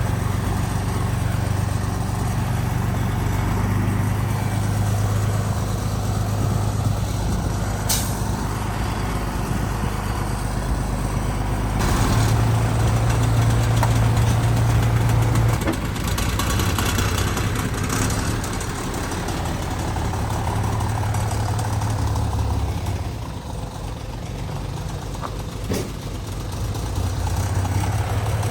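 Heavy diesel construction machinery running, its low engine note strengthening and easing as the load changes, with a few short sharp noises spread through it.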